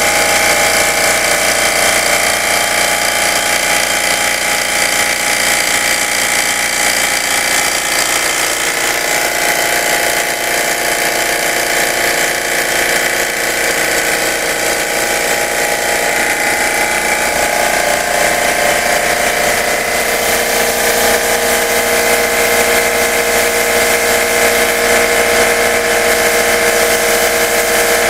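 A loud motor running steadily with a whining tone over a hiss, its pitch shifting slightly about two-thirds of the way through.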